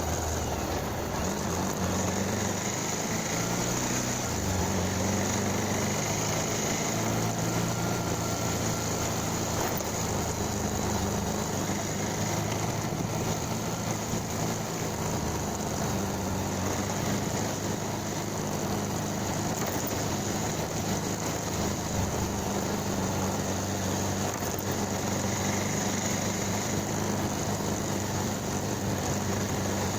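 Motorcycle engine running under way, its pitch shifting slightly as speed changes, with steady wind and road noise over the microphone.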